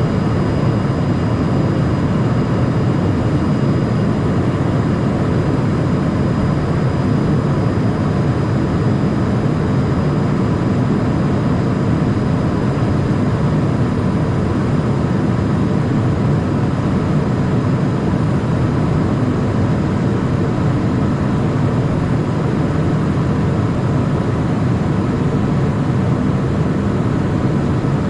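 Cockpit noise of a Cessna Citation Mustang light jet in flight: a steady low rush of airflow and its twin Pratt & Whitney PW615F turbofans, with a faint high whine held at a constant pitch.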